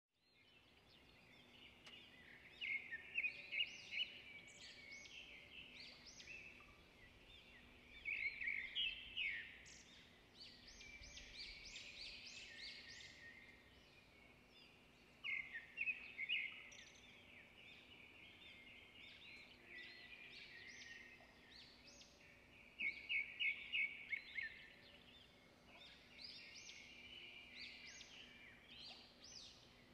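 A songbird singing in bouts of quick high chirps and trills, one bout every several seconds, over a faint steady hum.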